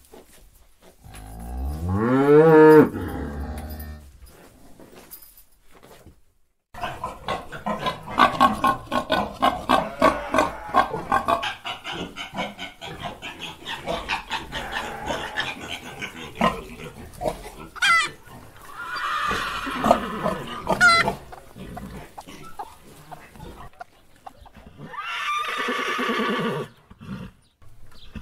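A calf gives one moo that rises in pitch and cuts off about two seconds in. Then a deer makes long runs of rapid, raspy pulsed calls, with a few brief high squeaks.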